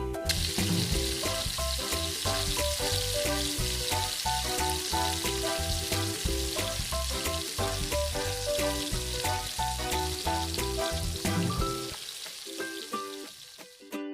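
Food sizzling as it fries, a steady hiss that starts suddenly and fades away about twelve seconds in, over background music.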